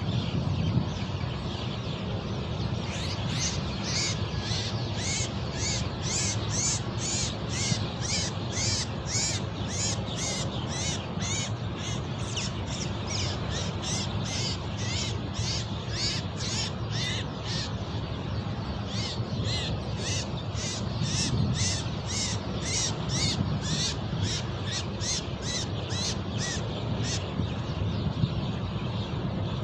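Harsh bird calls repeated at an even pace, about two or three a second, starting a few seconds in and stopping near the end, over a steady low rumble of wind.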